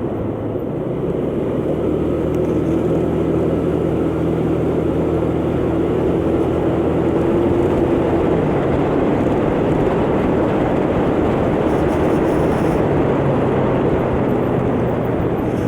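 125cc motor scooter engine running while riding, under a steady rush of wind over the microphone; the engine note holds steady, then shifts about eight seconds in.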